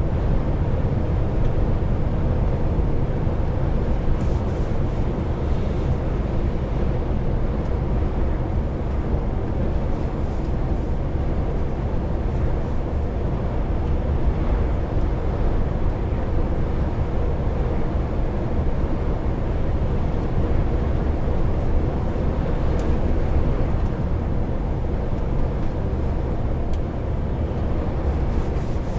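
Heavy truck's diesel engine running steadily under way with low road rumble, heard from inside the cab.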